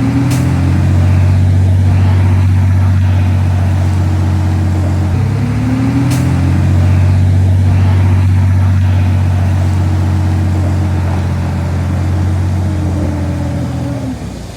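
Heavy diesel engine of earthmoving machinery running loud and working, its pitch rising as it revs up just after the start and again about five seconds in. Two brief clicks are heard, and the engine sound cuts off suddenly near the end.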